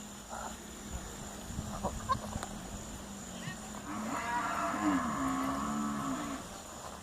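A single long, low, moo-like call from a farm animal, wavering in pitch, starting about four seconds in and lasting a little over two seconds.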